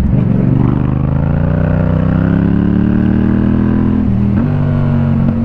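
Motorcycle engine pulling under throttle, its pitch rising steadily for about four seconds, then dropping with an upshift and running on at a steady pitch.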